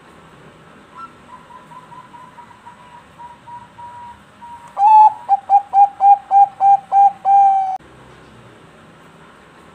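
Zebra dove (perkutut bangkok) cooing its song: a faint run of quick short notes, then, about halfway through, a loud run of about ten staccato coos ending in a longer held note.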